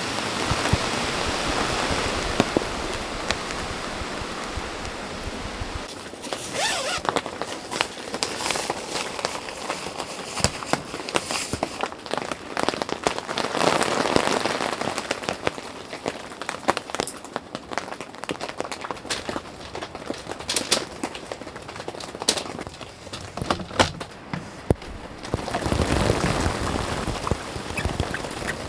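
Rain falling steadily, with many separate drops tapping sharply over the top of the hiss.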